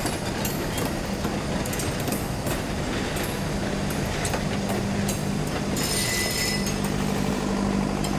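Metal passenger coaches of a train rolling past on the rails: a steady rumble of wheels on track with irregular clicks and a low steady hum.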